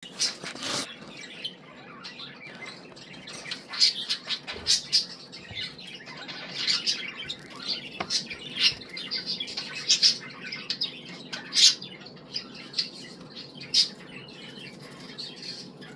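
Budgerigar chattering: a steady run of short, sharp chirps and squawks, some louder than others.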